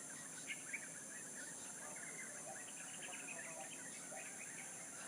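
Many small birds chirping and twittering over a steady, high insect buzz, with two short louder notes just under a second in.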